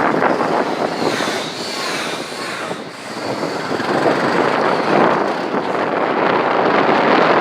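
Motorbike running, mixed with wind buffeting the microphone; the noise dips about three seconds in, then grows louder.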